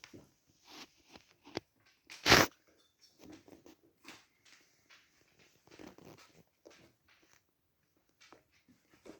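A Ragdoll kitten moving and playing: scattered soft scuffs and light taps, with one loud brief knock about two seconds in.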